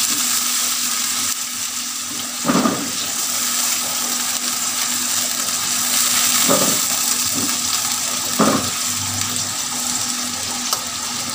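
Beef mince sizzling in hot oil in a kadhai while it is fried to brown it, with a spoon scraping through it about four times as it is stirred.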